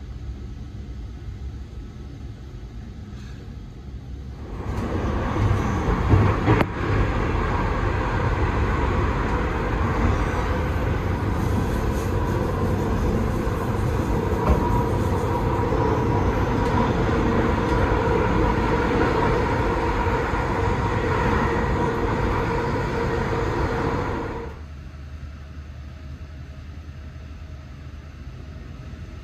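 Running noise of a moving passenger train of B5 coaches hauled by a DI 4 diesel locomotive, heard from on board: a steady rumble that grows much louder about five seconds in, with a faint whine running through it, and falls back to a quieter rumble after about twenty seconds.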